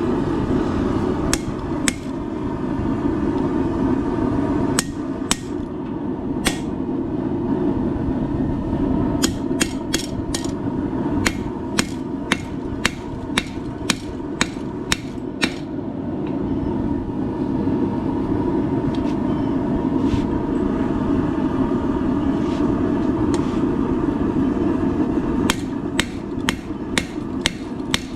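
Hammer striking hot steel on an anvil while forging a blacksmith's holdfast: a few scattered blows, then runs of about two blows a second with pauses between. A steady forge roar runs underneath.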